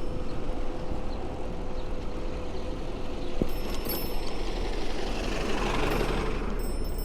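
City street traffic heard from a moving bicycle: a steady low road and wind rumble with a steady hum that stops with a click about three and a half seconds in. Near the end a passing vehicle swells and fades.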